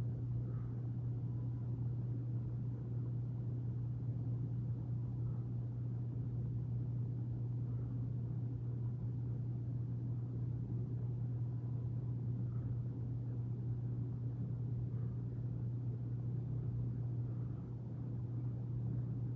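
Freight train passing: a steady low rumble, muffled through a closed window.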